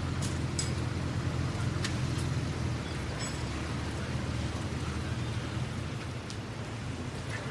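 City street ambience: a steady low traffic rumble with a few scattered sharp clicks and knocks.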